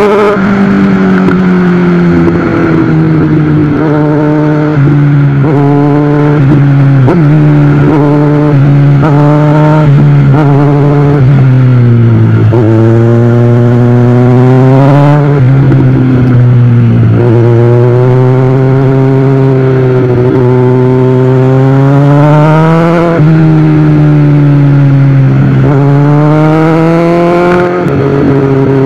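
Inline-four sport motorcycle engine under way, the revs climbing and falling back again and again: short pulls at first, then longer climbs in the second half.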